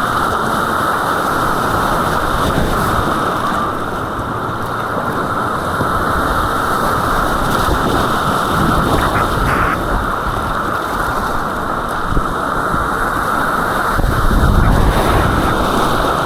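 Rushing white water of an artificial rapids course, a steady loud roar on the action camera's microphone, with heavier low rumbling near the end.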